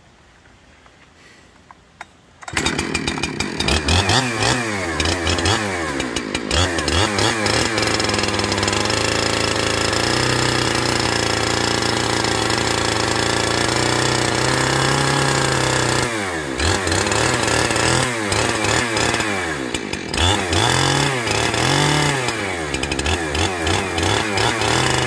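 Chainsaw fitted with a ripping chain and timber beam milling attachment comes in suddenly about two and a half seconds in and runs at high revs, its engine speed dipping and rising again several times.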